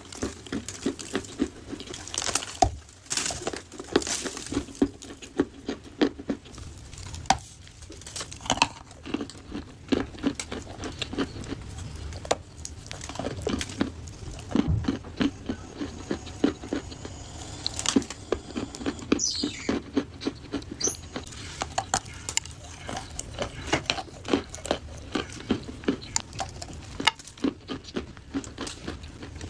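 Dry clay crunching and crumbling up close: a continuous, irregular stream of small crisp cracks and crackles.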